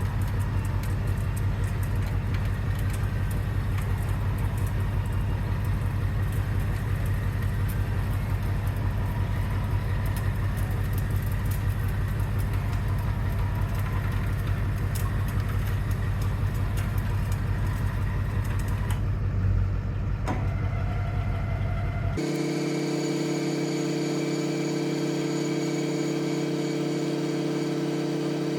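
Motor running steadily with a low hum and faint clicking as the pickup-bed roll-off runs its load test on power from temporary jumper cables. About 19 s in the sound thins and there is a click, and from about 22 s it settles into a smoother, even hum.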